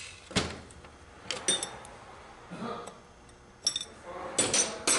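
Metal parts and hand tools clinking and knocking together in short, separate taps, some with a brief ring: a knock early on, a cluster of clinks about a second and a half in, and a busier run of clinks over the last second or so.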